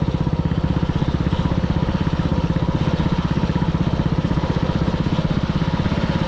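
Dirt bike engine running steadily at low revs, an even, fast pulse with no revving up or down.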